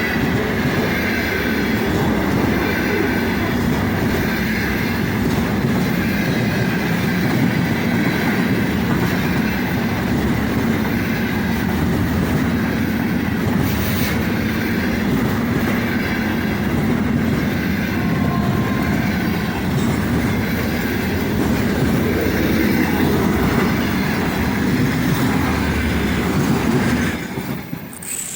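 Container freight train rolling past at speed, its wheels running loudly and steadily on the rails. The noise drops off sharply near the end.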